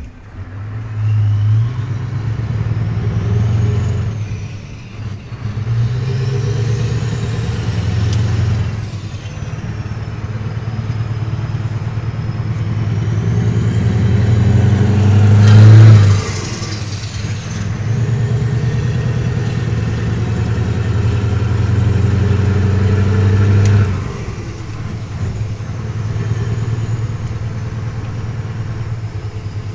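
Scania V8 diesel truck engine running under load. Its level rises and falls several times, with the loudest swell about sixteen seconds in and a drop about eight seconds before the end.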